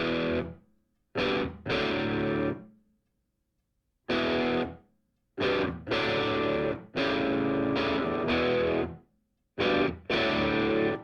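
Music: a distorted electric guitar playing chords in short stabs, each held for a moment and then cut off, with silent gaps between.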